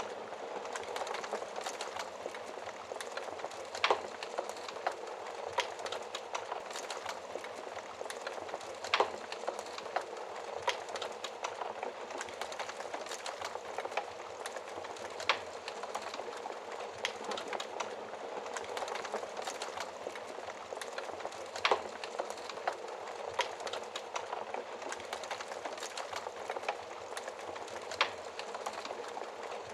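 Wood fire crackling steadily, with a dense bed of small crackles and a sharp louder pop every five or six seconds.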